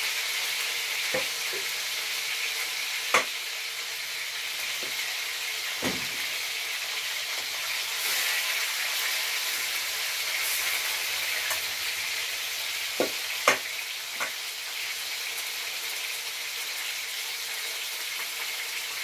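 Chicken pieces sizzling steadily as they fry and brown in a pan, with a few sharp clinks of a metal fork, the loudest about three seconds in and again around thirteen seconds.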